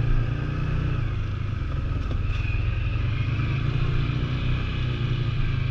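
ATV engine running steadily, its sound sitting low in pitch.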